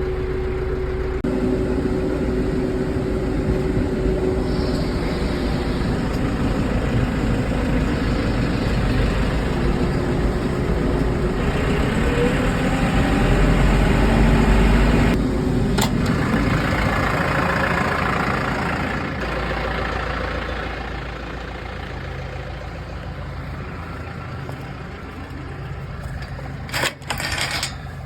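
Tractor engine running, its speed shifting up and down, loudest about halfway through and then settling lower for the last several seconds, with a few sharp clicks near the end.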